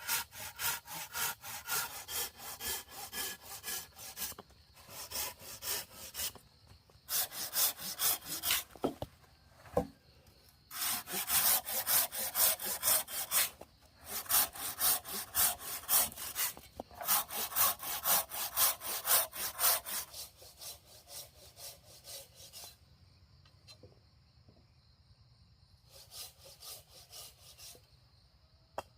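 Hand saw cutting wood in quick back-and-forth strokes, in several runs with short pauses between them. It goes quiet for a few seconds near the end before one last short run.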